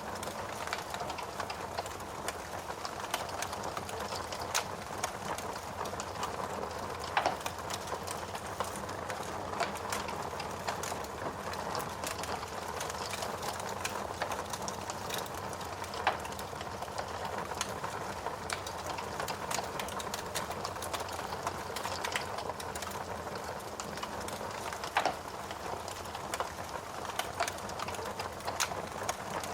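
Wood fire burning in a fireplace: a steady hiss with irregular crackles and sharper pops from the burning logs.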